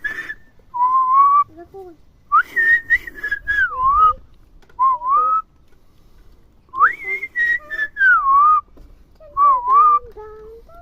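A person whistling a warbling tune in phrases of a second or two, the pitch gliding up and down with short pauses between phrases. Turkey poults peep along in response.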